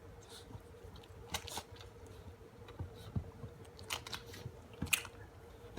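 Chocolate Labrador puppies feeding: irregular chewing and smacking clicks over a faint steady hum.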